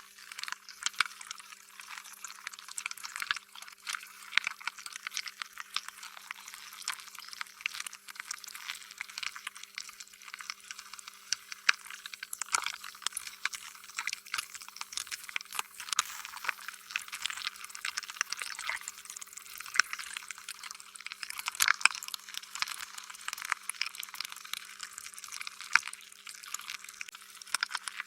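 Slime being squished and stretched: a dense, continuous run of small wet clicks and squelches, with a faint steady hum underneath.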